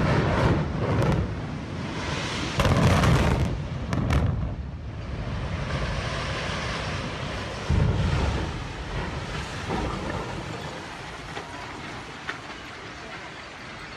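Explosive demolition of a 300-foot apartment building: a sudden heavy blast, further bursts over the first eight seconds, then the rumble of the collapse slowly fading.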